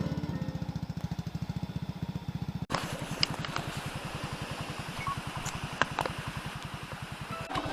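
Honda Super Cub's single-cylinder four-stroke engine idling with an even low putter. It cuts off abruptly about a third of the way in and picks up again straight away.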